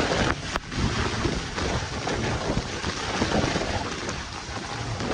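Heavy rain falling in a steady hiss, with wind buffeting the microphone in low gusty rumbles.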